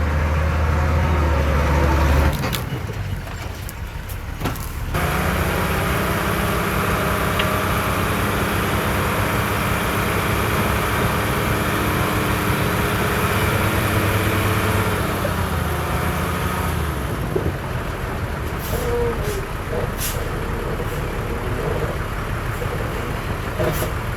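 Heavy diesel engines of a bulldozer and dump trucks working, the engine note shifting several times, with a few short sharp hissing or clanking sounds in the last few seconds.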